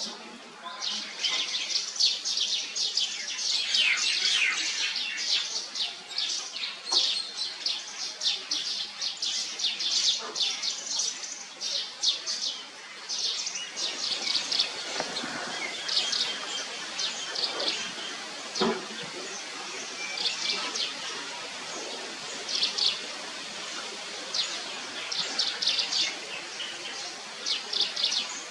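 Small birds chirping, with many short high chirps in quick succession.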